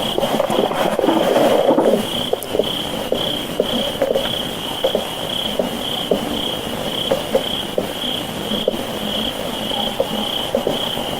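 Night-time chorus with a high, even chirp pulsing about twice a second and scattered faint short clicks. A rushing noise drops away about two seconds in.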